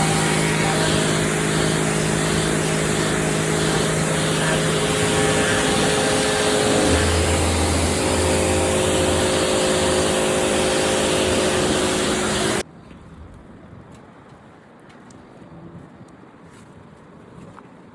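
Pressure washer running, a steady hiss of spray over a motor hum, cutting off suddenly about thirteen seconds in.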